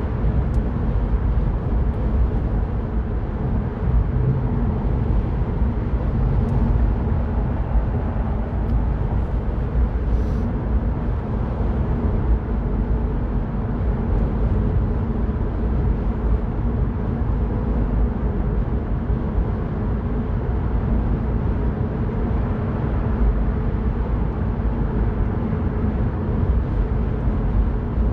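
Mini Cooper Cabrio cruising at a steady speed: a low engine hum mixed with tyre and road rumble, heard from inside the car.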